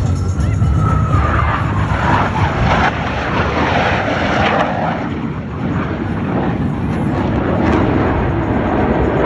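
Blue Angels Boeing F/A-18 Super Hornet jet passing by, its engine noise a loud, steady rumble with a whine that falls in pitch in the first couple of seconds as it goes past.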